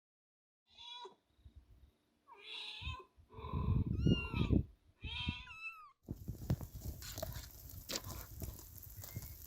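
Young kittens meowing: about four cries in a row, some rising then falling in pitch. Then, about six seconds in, rustling and crackling of brush takes over.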